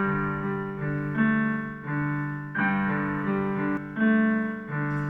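Piano playing a slow introduction of sustained chords, changing about once a second.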